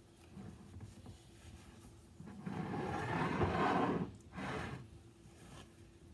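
Paper towel rubbing and squeaking around the rim and sides of a glass canning jar, wiping it clean so the lid will seal. A long wipe of nearly two seconds, followed by a shorter one.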